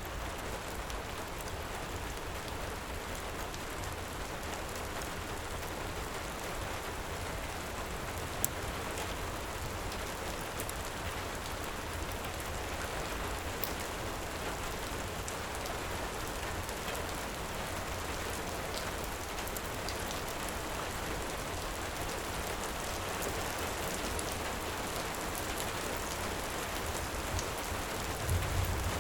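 Heavy rain falling steadily, with scattered sharp pops from a crackling wood fire and one louder pop about eight seconds in. A brief low rumble comes near the end.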